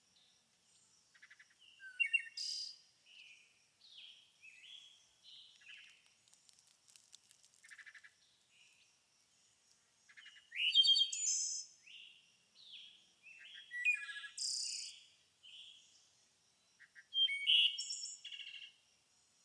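Several songbirds chirping and calling in short, varied notes and trills, louder and busier around ten to twelve seconds in and again near the end.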